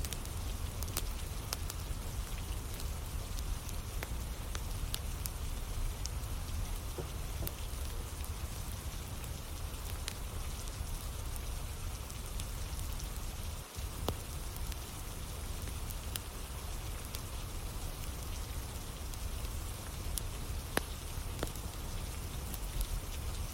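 Steady rain falling, with the scattered sharp crackles of a campfire burning in the rain.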